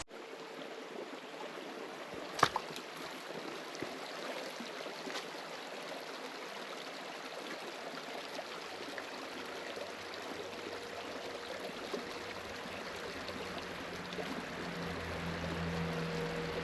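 Small creek running: a steady, even trickle of shallow water over stones. One sharp click comes about two and a half seconds in, and a low hum comes in near the end.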